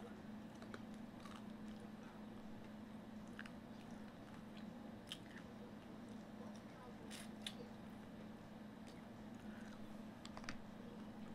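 Close-up eating sounds: fried chicken being bitten and chewed, with faint, scattered crunches and wet mouth clicks.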